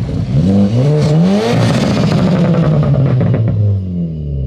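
Car engine accelerating as a car pulls out and drives past: the engine note climbs about a second in, holds, then falls away near the end.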